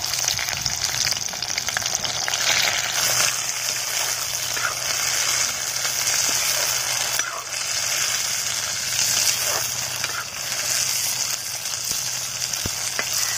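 Chopped yardlong beans sizzling steadily as they fry in hot oil in a metal kadhai, with a metal ladle stirring and scraping through them now and then.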